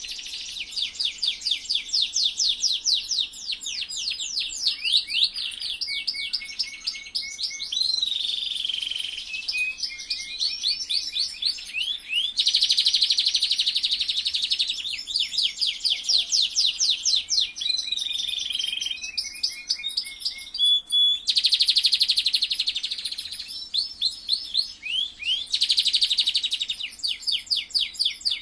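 Domestic canary singing a long, continuous song of rapid repeated sweeping notes and dense buzzy rolls: the full song of a canary in breeding condition.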